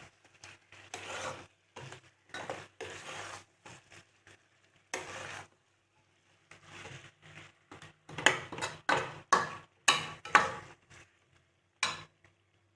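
A ladle stirring and scraping thick chicken curry in a cooking pot, in short irregular strokes, with a few sharper knocks against the pan about two thirds of the way in.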